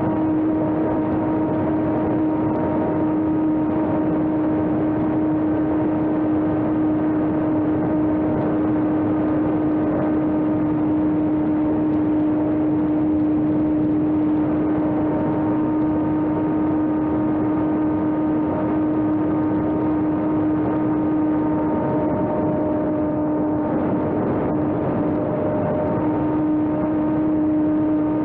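Electric RC airplane's brushless motor and propeller running at a steady throttle, a constant buzzing whine with overtones over wind and airflow noise, its pitch dipping slightly a couple of times.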